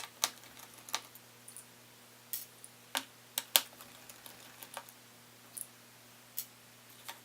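Scattered light clicks and taps of small tools and parts being handled during laptop disassembly, irregular, with the sharpest tap about three and a half seconds in, over a faint steady hum.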